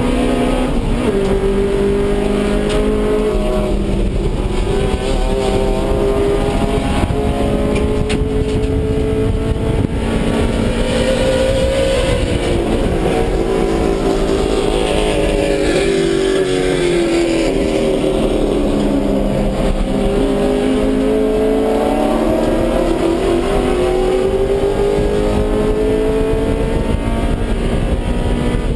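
Stock Honda B18C5 1.8-litre DOHC VTEC four-cylinder running hard in an EG Civic race car, heard inside the stripped cabin. The engine note holds high for the first half, drops about halfway through and climbs back up over the following several seconds.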